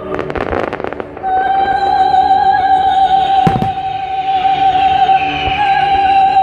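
Fireworks display: a rapid run of crackling in the first second and a single sharp bang about three and a half seconds in, over loud music with a long held note.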